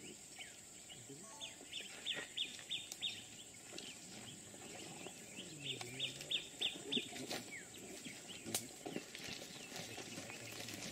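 A bird calling in two runs of quick, sharp chirps, about four a second, over a steady high insect drone.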